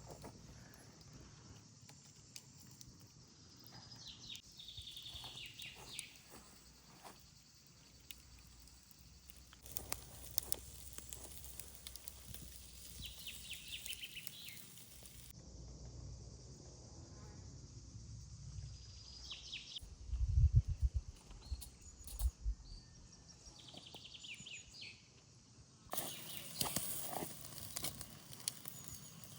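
Outdoor ambience: scattered small clicks and knocks with a few short chirps and a brief low thump or wind rumble about twenty seconds in.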